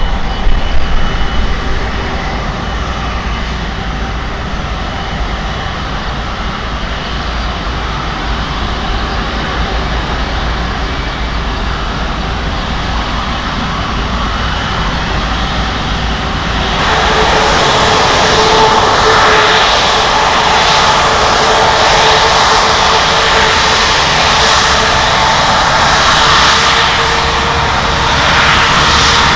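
Jet airliner engines on a landing approach: a steady rumble for the first half, then, about 17 s in, a sudden rise to a loud jet roar with a steady whine as the aircraft comes close. A low wind rumble on the microphone lies under the first half.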